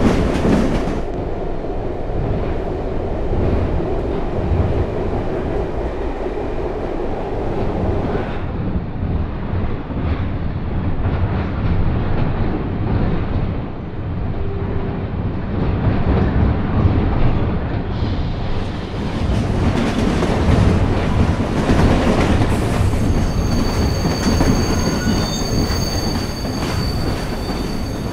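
A train running on rails with a continuous rumble of wheels on track. A high wheel squeal rings out over it for a few seconds near the end.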